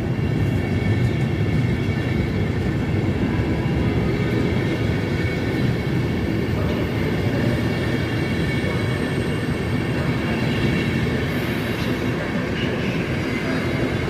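Electric locomotive X4E-803 with an intercity passenger train moving at the platform: a steady rumble of the train on the rails, with faint high-pitched tones above it that rise slightly near the end.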